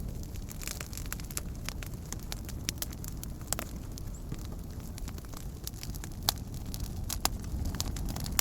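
Wood campfire burning: a steady low rumble with irregular crackles and a few sharper pops.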